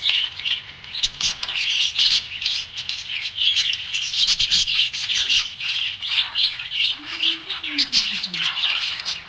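Budgerigar chirping and warbling: a continuous stream of rapid, high-pitched chirps and scratchy notes.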